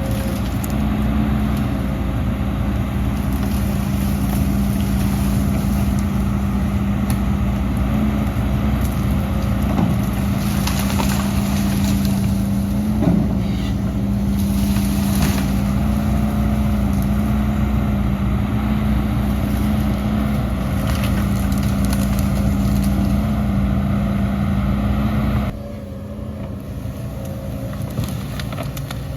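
Heavy diesel engine of earth-moving machinery running steadily under load, with a strong steady drone. About 25 seconds in it drops suddenly to a quieter level.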